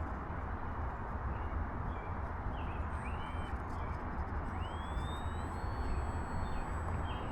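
Gusty wind buffeting the microphone: a steady low rumble and hiss. Short bird chirps come in over it from about a second in, and a thin high tone rises and then holds from about five seconds in.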